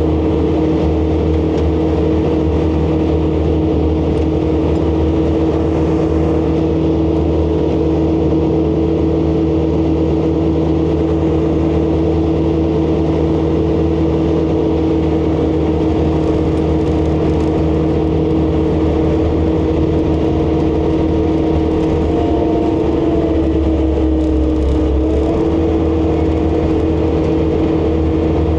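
ASV RC100 compact track loader's diesel engine running steadily at high revs, powering a hydraulic skid-steer snowblower as it clears snow.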